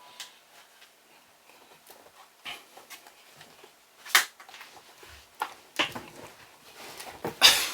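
A person's sharp breaths and sighs with brief wordless vocal sounds. One loud breath comes about four seconds in, and a louder run of breathy, voiced sounds builds near the end.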